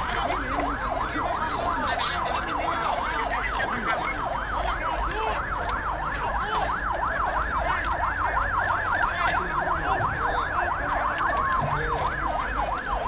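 Emergency vehicle sirens wailing in a fast yelp, the pitch rising and falling about five times a second. Several sirens overlap in the first half; from about halfway on one regular yelp dominates.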